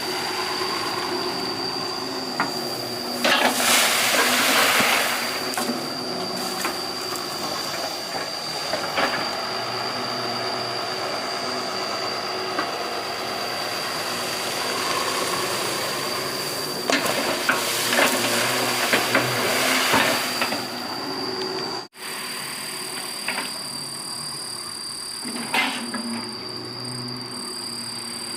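Doosan 140 hydraulic excavator working: its diesel engine runs steadily with a constant high whine, and loud rushing surges come a few seconds in and again past the middle.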